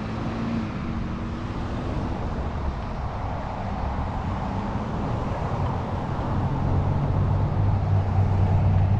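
A motor vehicle's engine running under a steady rush of road and wind noise, its low hum growing louder in the second half.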